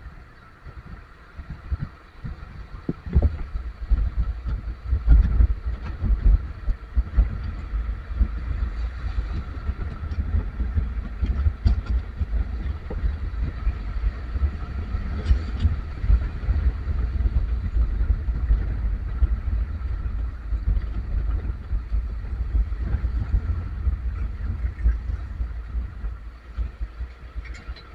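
Vehicle running in stop-and-go traffic: a continuous low engine and road rumble with uneven low thumps, and a faint steady high hum over it.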